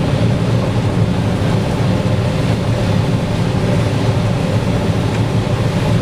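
Combine harvester running steadily while harvesting corn: an even, unbroken low drone with a faint steady hum above it.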